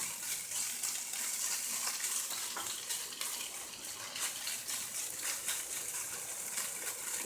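Diced tofu sizzling in a dry frying pan on high heat, a steady hiss with small scattered crackles as its water cooks out and it sears.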